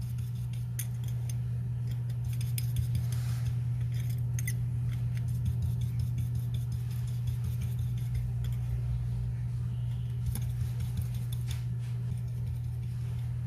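Scattered light clicks and taps of small metal watchmaker's tools on the parts of a Seiko 6119 automatic movement, over a steady low hum.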